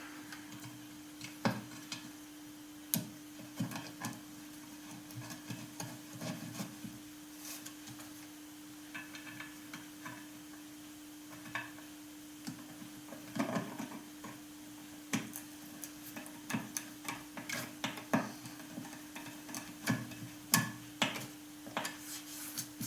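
Scattered small clicks, taps and scrapes of screws being turned with a screwdriver and metal parts being handled, over a steady hum.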